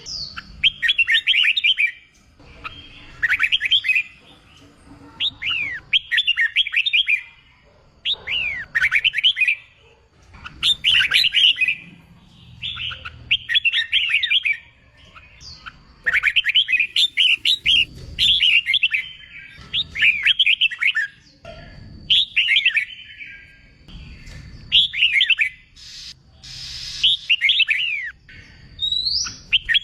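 Red-whiskered bulbul singing: short, loud phrases of quick whistled notes sweeping up and down in pitch, each about a second long and repeated roughly every two seconds.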